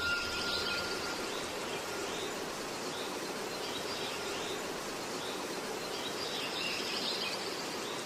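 Woodland ambience: birds chirping in a few short bursts over a steady background hiss.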